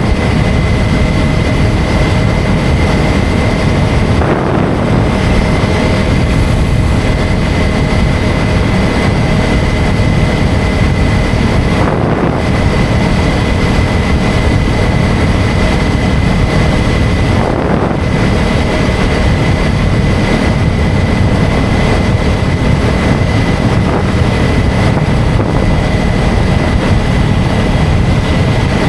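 KTM 250 Duke's single-cylinder engine running at a steady road speed, with wind noise rushing over the microphone and a thin, steady high whine.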